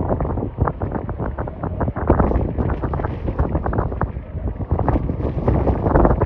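Strong wind buffeting the microphone: uneven rumbling gusts, heaviest in the low end, that rise and fall irregularly throughout.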